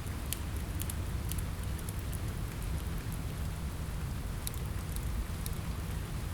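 Steady rain over a low rumble, with scattered sharp crackles and ticks from a wood fire burning in a fireplace.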